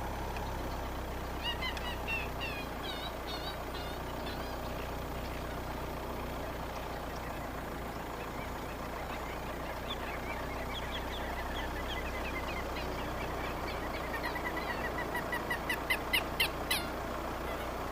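Wild birds calling in runs of short, quick chirps, over a steady low hum of a slow-moving vehicle. The calls come about a second in and again through the second half, with a few sharp clicks near the end.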